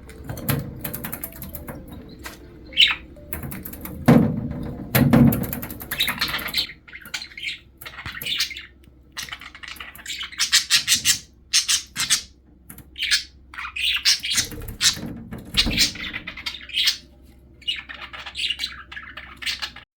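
Budgerigars chattering in rapid short chirps and squawks. There are a couple of loud dull thumps about four and five seconds in, and another near the end.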